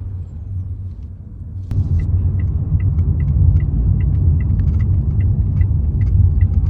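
Road rumble inside a moving car, stepping up in loudness about two seconds in, with a regular ticking about two and a half times a second over it.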